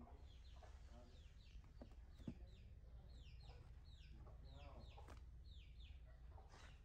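Faint bird calls: a run of short, falling chirps, about two or three a second, with a few lower calls among them.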